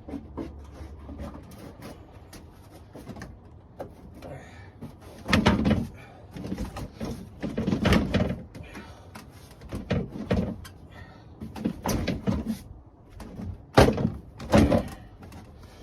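Irregular plastic knocks and clunks as a car's front bumper cover and trim are pushed and snapped back into place. The heaviest clunks come about five and a half, eight and fourteen seconds in.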